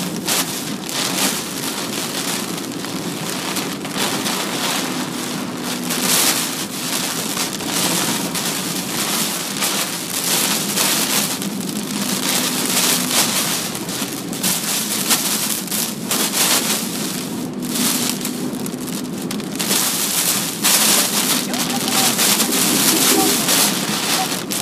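Typhoon rain and wind pelting a moving car, heard from inside the cabin: a loud, steady hiss of rain on the body and windscreen that surges and eases with the gusts.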